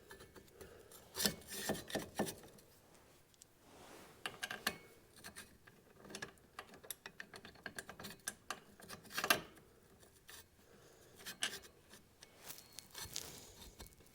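Faint, intermittent rubbing and scraping with scattered light clicks and knocks from hands handling tools and parts during a repair, loudest about nine seconds in.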